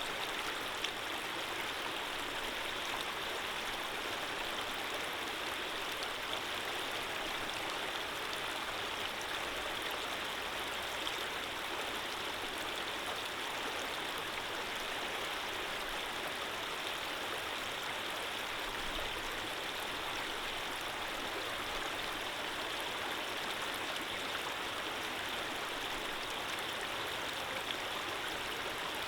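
Running water flowing steadily, a stream's even rushing and splashing with no change in level.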